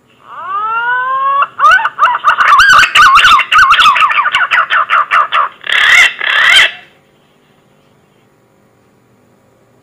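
Green pigeon (punai) song played as a lure call: a few rising whistles, then a fast warbling run of whistled notes lasting several seconds, loud enough to crackle with distortion, ending about seven seconds in.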